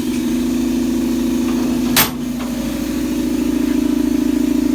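Riding lawn tractor's small gasoline engine running steadily with a loud drone, and one sharp crack about two seconds in.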